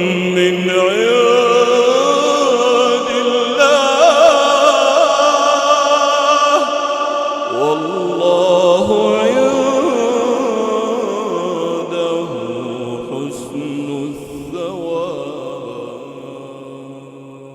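A man chanting Quran recitation in a slow melodic style, holding and ornamenting long drawn-out notes. The voice fades out over the last few seconds.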